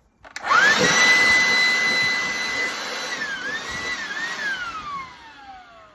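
Cordless vacuum cleaner switched on with a click, its motor spinning up to a steady high whine. The pitch dips briefly twice, then the motor winds down with a falling whine.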